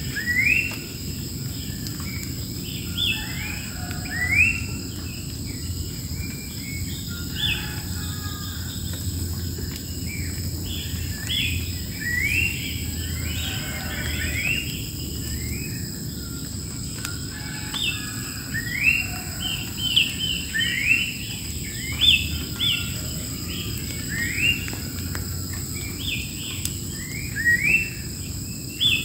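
Wild birds giving many short, rising chirps, over a steady high-pitched drone of insects and a low rumble underneath.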